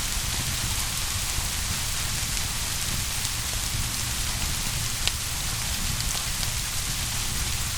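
Steady rain, an even hiss, with one faint click about five seconds in.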